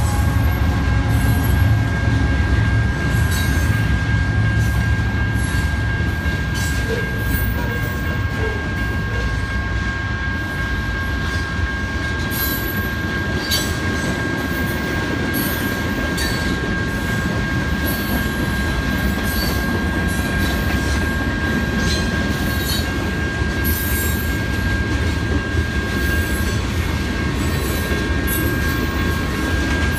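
Freight train rolling through a grade crossing. A diesel locomotive's engine rumbles at first, then gives way to the clatter and wheel noise of passing hopper and tank cars. The crossing's electronic bells ring on steadily throughout.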